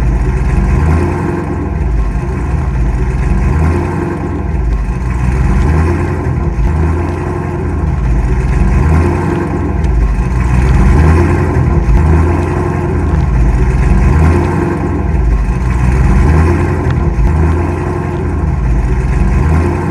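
A car engine running and revving, loud and low, its level swelling and easing off every couple of seconds.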